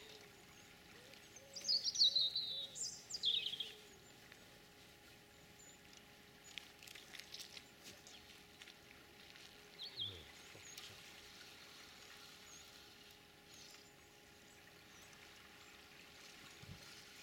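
A bird calling in quick descending chirps from about one and a half to three and a half seconds in, with one short call near ten seconds, over the steady rush of a fast-flowing river.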